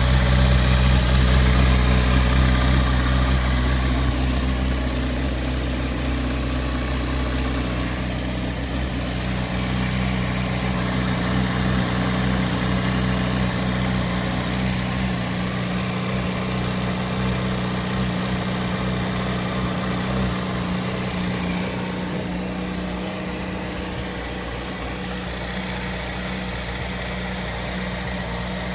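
Honda CBR600RR's inline-four engine idling steadily, a little louder in the first few seconds.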